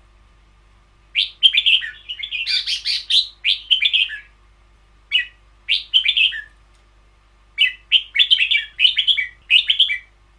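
Caged red-whiskered bulbul singing in three bursts of quick, sweeping whistled phrases with short pauses between, in the long doubled-phrase 'double long' song style.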